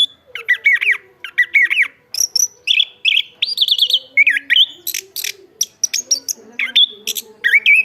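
Chestnut-backed thrush singing a fast, varied song of short sweeping whistles and chirps, phrase after phrase with hardly a pause.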